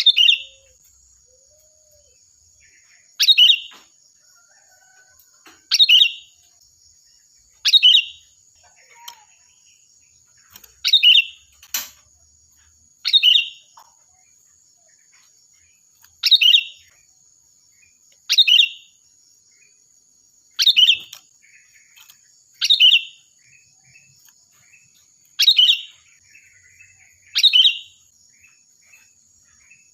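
Sooty-headed bulbul (kutilang) calling loud and shrill: about a dozen short, sharp calls, one roughly every two seconds. A faint steady high-pitched tone runs beneath them.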